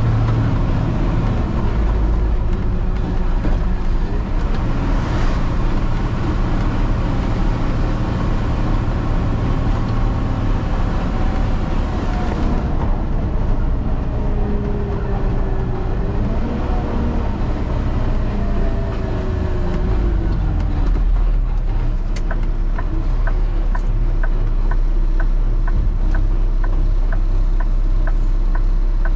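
Peterbilt truck's diesel engine running under way, its pitch rising and falling about halfway through as its speed changes. In the last third a regular tick comes in, about twice a second.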